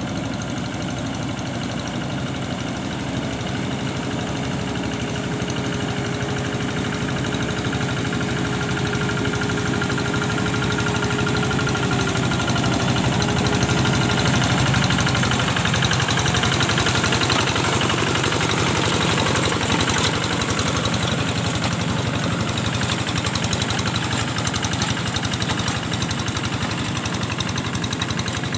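An engine running steadily at an even pace, with a faint steady whine over it for the first half.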